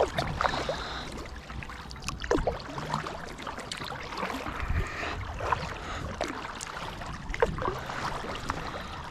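Kayak moving on the water: a steady wash of water noise with scattered small clicks and knocks, and a louder knock at the very start.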